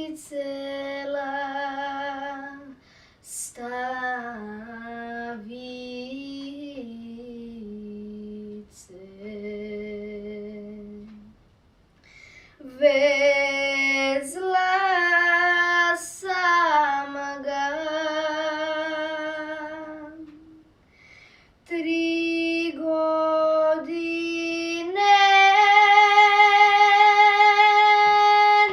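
A woman singing a slow Serbian folk song alone, without instruments. She draws out long, ornamented notes with a wavering pitch and pauses briefly for breath twice. The loudest is a high note held from about 25 seconds in.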